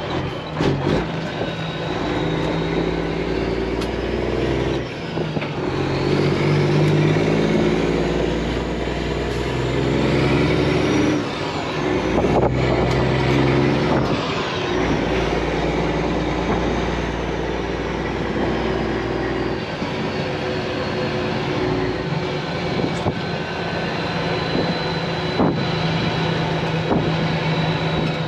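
Semi-truck's diesel engine running under way, its pitch rising and falling over several seconds as it pulls and eases off.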